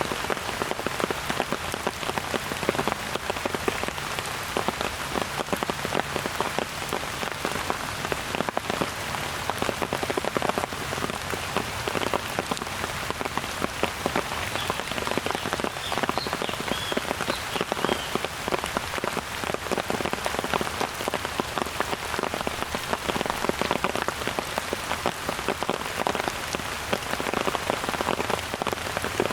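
Steady rain falling, a dense, even patter of drops on the surfaces all around. A few faint high chirps, of the kind frogs make, come through the rain about halfway through.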